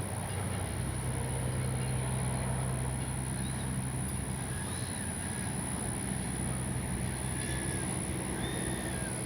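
80mm 12-blade electric ducted fan of an RC jet running steadily, a constant high whine over a low hum. A few faint chirps sound over it.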